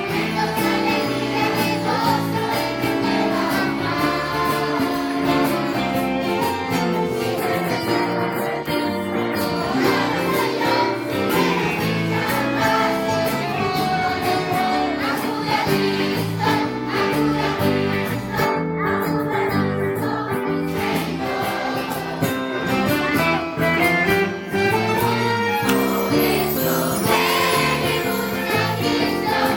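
Children's choir singing a lively hymn with instrumental accompaniment and steady jingling percussion keeping the beat.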